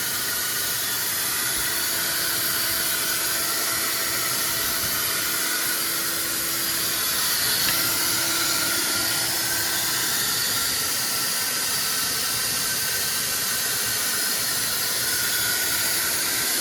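Steady hiss of rushing air, blown into an R53 Mini Cooper's exhaust by a wet/dry vac and escaping through an exhaust leak: a crack past the flex pipe, towards the catalytic converter.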